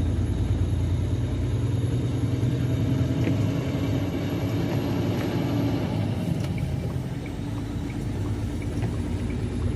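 Steady low rumble of a semi truck's diesel engine and road noise heard inside the cab while driving, with a faint, quick ticking in the last couple of seconds.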